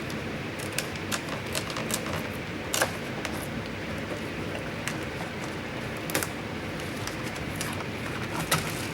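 Irregular sharp plastic clicks and clacks, with louder snaps about three seconds in, about six seconds in and near the end, as a Mustang door's power-window switch panel is pried at; its retaining tabs are broken and it is glued down. A steady hiss of shop fans runs underneath.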